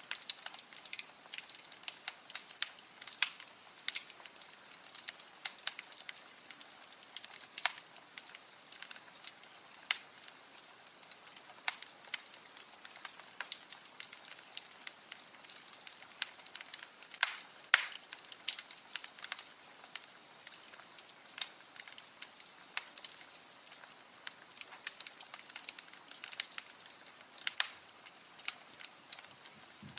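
Fire crackling in a fireplace: irregular sharp pops and snaps over a faint steady hiss.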